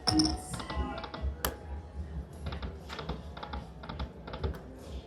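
Lightning Link slot machine spinning: a run of rapid sharp clicks from the reels, with a short electronic chime at the start, over casino background noise.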